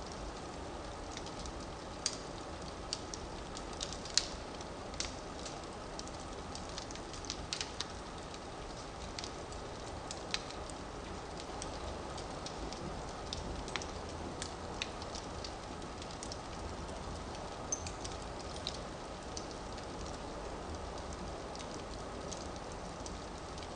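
Firewood burning in a fireplace, with a steady low rush of flame and irregular sharp crackles and pops, a few of them louder snaps.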